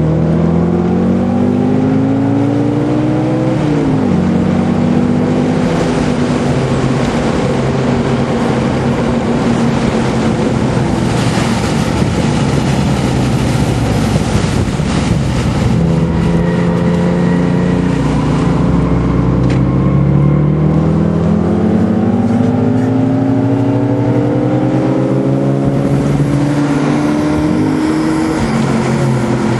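Car engine heard from inside the cabin under acceleration, revs climbing through the gears with a sharp drop at a gear change about four seconds in, then a long climb that peaks and drops near the end. Road and wind noise rumble underneath.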